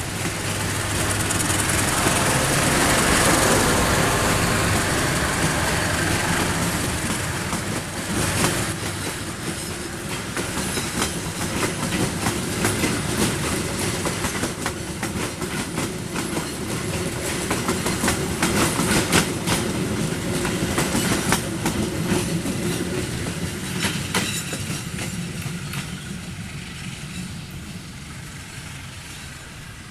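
Diesel locomotive-hauled passenger train passing close by. The locomotive's engine is loudest in the first few seconds, then the carriages' wheels clack rhythmically over the rail joints. The sound fades away near the end as the train recedes.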